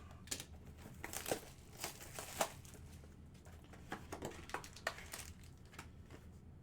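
Plastic trading-card packaging crinkling and tearing as a sealed box and its packs are opened by hand, in a run of irregular sharp crackles.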